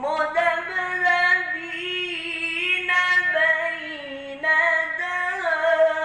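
A single voice in melodic Quran-recitation style, holding one long drawn-out vowel that steps and wavers in pitch with small ornaments and dips briefly about four seconds in.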